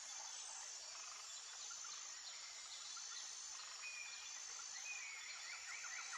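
Steady hiss of a waterfall and river, with birds chirping and a high, steady insect buzz over it; a rapid bird trill comes in near the end.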